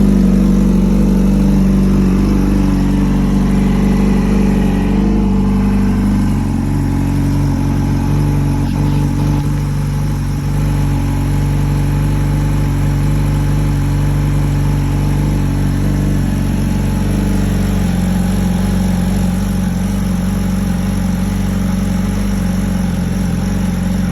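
Yamaha R6 inline-four with a full Akrapovic exhaust idling steadily after a cold start. About six seconds in, the idle note changes and eases off slightly, then holds steady.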